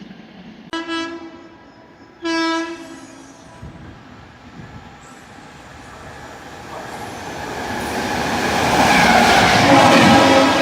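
An Indian Railways train sounds its horn in two blasts, a short one and then a longer one, then comes through with a steadily rising rumble and wheel clatter that is loudest near the end.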